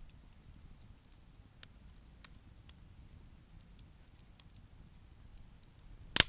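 Wood campfire crackling: sparse small ticks and snaps, with one sharp, loud pop near the end.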